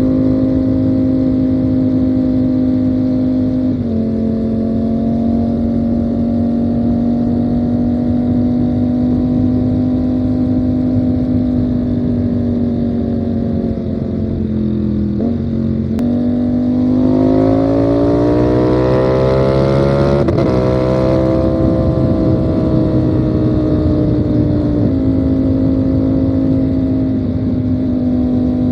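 Ducati Panigale V4 motorcycle engine running under way, mostly at a steady cruise. Its pitch steps down at a gear change about four seconds in. Around halfway it drops, jumps back up at a downshift, and then climbs for several seconds as the bike accelerates, before easing off and stepping down again at another shift near the end.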